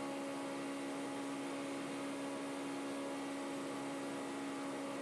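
A steady hum with an even hiss, unchanging throughout.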